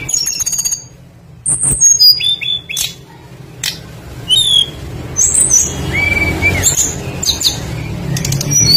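Tledekan songbird singing a varied, rapid song of short high chirps, clicks and whistled notes, several sliding downward, with one longer steady whistle about six seconds in. It is the bird's full song with mimicked phrases.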